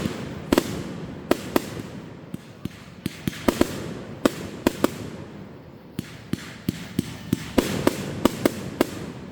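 Fireworks going off in quick, irregular succession: sharp bangs and cracks, two or three a second, over a continuous low rumble of further explosions and echoes.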